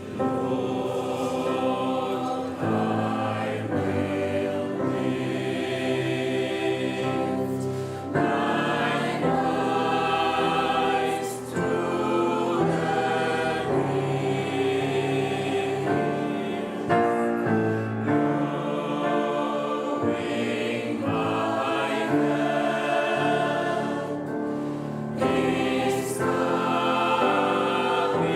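A gospel choir singing together in chords, phrase after phrase with short breaks between.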